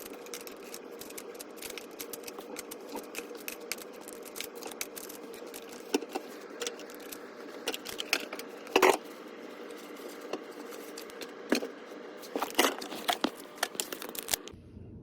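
Small magnetic toy cubes clicking and clattering as they are handled and put into a container, in irregular bursts over a steady low hum, with a louder clatter about nine seconds in; the sound cuts off abruptly near the end.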